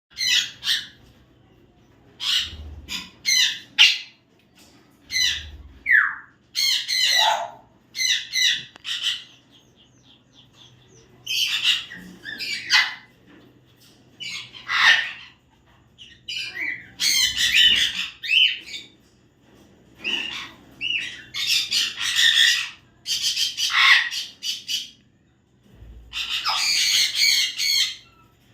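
Eclectus parrots squawking: harsh, raspy calls in short bursts repeated throughout, with a few calls sliding down in pitch.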